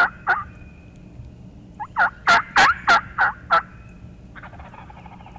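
Turkey yelping: a couple of loud yelps at the very start, then a run of about seven loud, evenly spaced yelps, roughly three a second, from about two seconds in.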